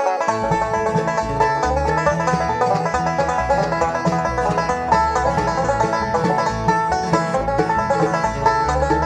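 Instrumental bluegrass intro with rapid banjo picking over guitar, mandolin and upright bass.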